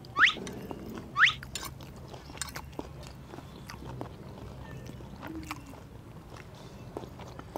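Close-up mouth noises of people chewing and biting food, with many small clicks. Two sharp rising chirps about a second apart near the start are the loudest sounds.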